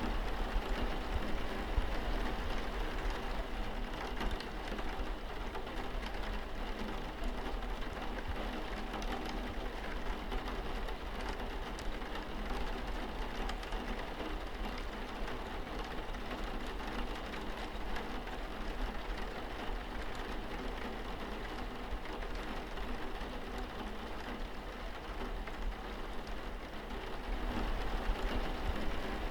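Steady rain falling on a window pane: an even hiss of drops with a low rumble underneath.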